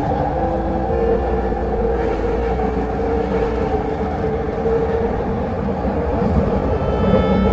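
Vancouver SkyTrain car running along the track: a steady rail rumble with a low motor hum. Near the end, higher whining tones start to come in.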